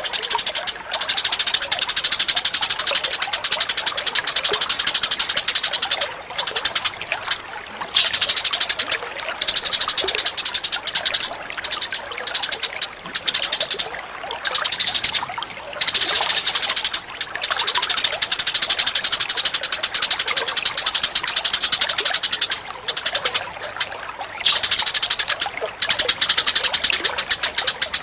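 Recorded songbird chatter for bird training: very rapid, high chattering in long runs of several seconds, broken by short pauses.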